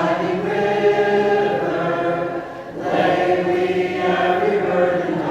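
A vocal group singing a song together in held, sustained notes, with a short break for breath about halfway through before the voices come back in.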